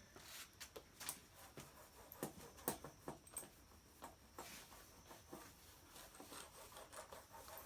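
Faint, irregular small clicks and light rubbing, like tools or materials being handled, with one sharper knock a little under three seconds in.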